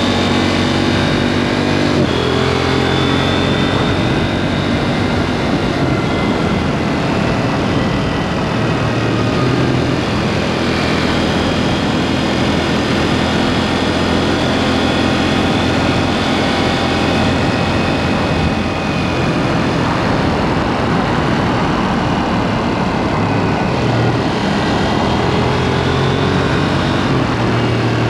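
KTM 790 Duke's parallel-twin engine through an aftermarket SpeedPro Cobra SPX exhaust, running under way, its pitch rising and falling with throttle and gear changes.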